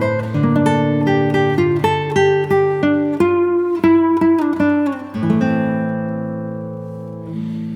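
Background music: acoustic guitar playing a picked melody, then a chord left ringing and slowly fading over the last couple of seconds.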